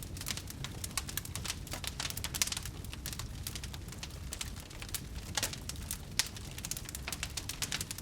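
Wood fire crackling in a fireplace: dense, irregular pops and snaps over a steady low rumble of the burning fire.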